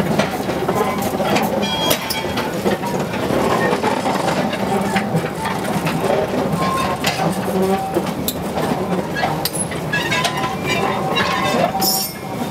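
Freight train wagons rolling along the rails: a steady rumbling clatter with many sharp metallic knocks and clanks.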